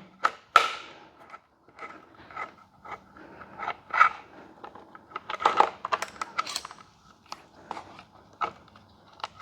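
Irregular light clicks and clinks of hand work: small metal bolts and a hex key being handled against a motorcycle's plastic tail section as it is unbolted.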